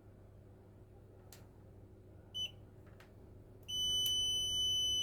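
Digital multimeter in continuity mode beeping: a short beep about two and a half seconds in, then a steady high beep held for about two seconds near the end, signalling a closed circuit between the probes. A few faint clicks come before it.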